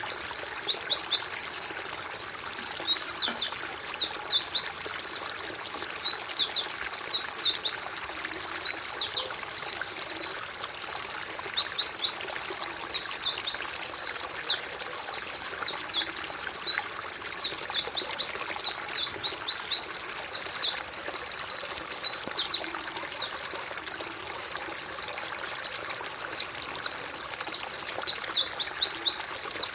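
White-eyes (pleci) chirping: a dense, continuous stream of high, quick downward chirps that overlap one another without pause.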